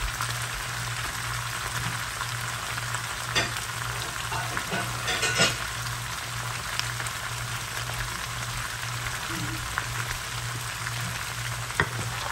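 Brussels sprouts and onions sizzling steadily in a hot skillet on high heat, over a low steady hum. A few short clicks break in, the sharpest about five seconds in.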